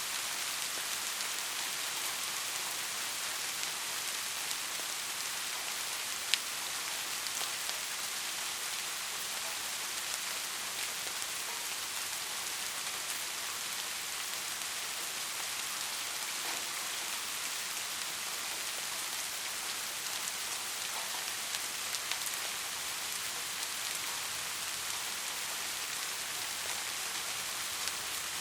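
Steady rain falling, an even hiss with scattered sharp drop ticks. One louder tick comes about six seconds in.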